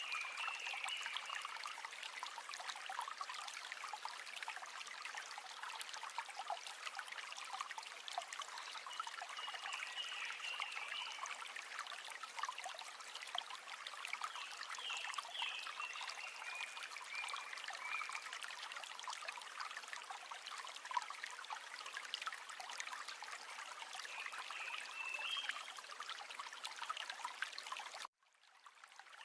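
River water running in a steady trickling, rippling flow, with a few short high calls now and then. About a second before the end the sound cuts out suddenly, then fades back in.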